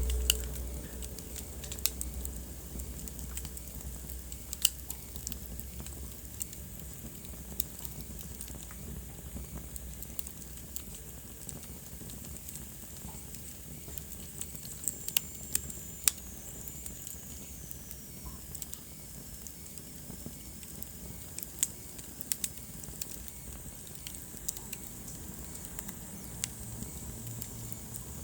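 Wood fire burning in a fireplace: a steady low rumble and hiss with sharp crackles and pops at irregular intervals. About halfway through, a faint high whistle slowly falls in pitch.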